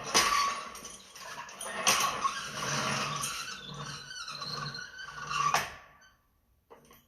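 Floor jack being pumped up under the engine's oil pan, squeaking in a steady rhythm of about two strokes a second, with sharp metal clicks; it stops about six seconds in.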